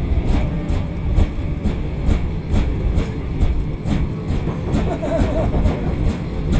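Train running with a steady low rumble inside the carriage, over which football supporters drum a regular beat about twice a second, with a short burst of chanting about five seconds in.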